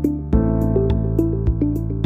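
Background music: sustained synthesizer chords under a short repeating keyboard melody, with a steady ticking beat and a chord change about a third of a second in.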